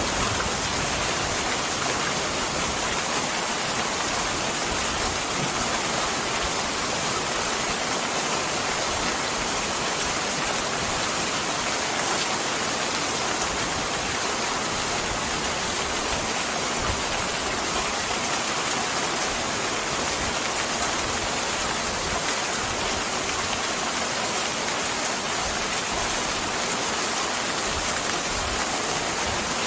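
Steady rain falling on a surface, an even hiss with no breaks.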